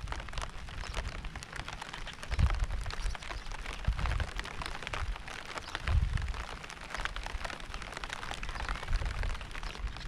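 Rain falling as a dense patter of drops, with low dull thumps about two and a half, four and six seconds in.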